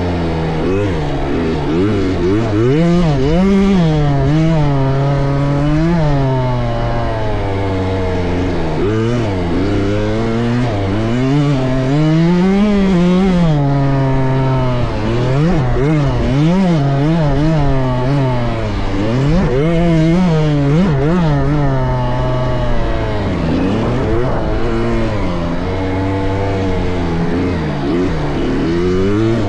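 KTM 65 two-stroke dirt bike engine revving up and falling back over and over, rising and dropping in pitch every second or two as the bike is ridden around a motocross track.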